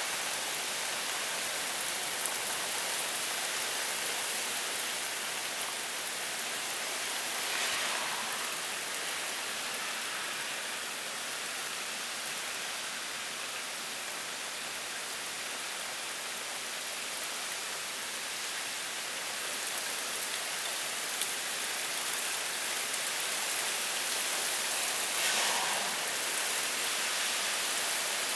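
Heavy downpour of rain falling in a steady hiss, with two brief louder swells, about a quarter of the way in and near the end.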